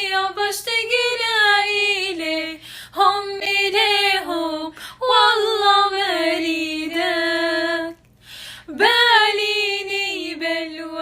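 A woman singing unaccompanied in long, ornamented phrases, breaking briefly for breath about 3 and 5 seconds in and for a longer pause near 8 seconds.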